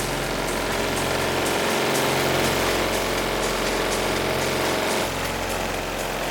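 Competition car-audio system with subwoofers playing bass-heavy music at very high volume. The deep bass tones hold steady and change pitch every few seconds.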